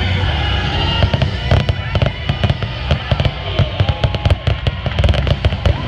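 Aerial fireworks going off in a rapid, dense barrage of bangs, starting about a second in, over loud show music.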